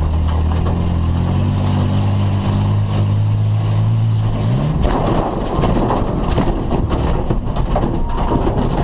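1987 Ford F-150's straight-six engine under load, its pitch rising slowly, then revving up sharply about halfway through. A rough, noisy stretch with scattered knocks and bangs follows as the truck works over the course.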